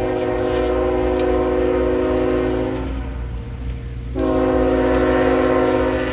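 Locomotive air horn sounding two long blasts, each a steady chord of several tones, the first about three seconds long and the second starting about four seconds in. Beneath the horn runs the low, steady rumble of the train.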